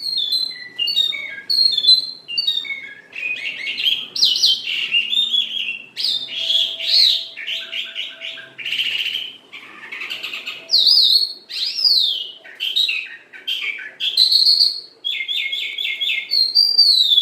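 A songbird singing a long, varied song of quick chirps, rapid trills and rising and falling whistled notes, with only short pauses.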